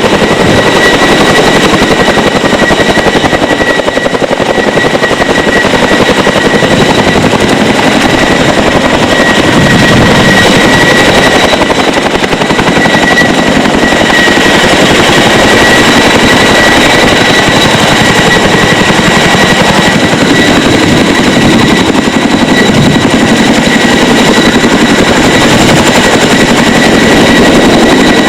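CH-47 Chinook tandem-rotor helicopter running steadily and loudly, a rapid rotor chop under a constant high-pitched transmission whine.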